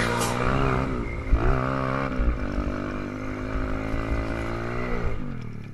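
Pit bike engine revving: the pitch climbs about a second in, holds fairly steady, then drops as the throttle closes near the end.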